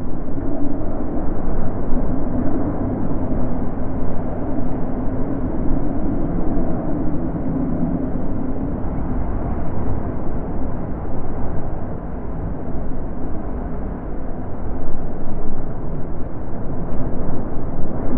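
Wind blowing in long gusts: a steady rushing with a low moaning note that swells and fades every few seconds.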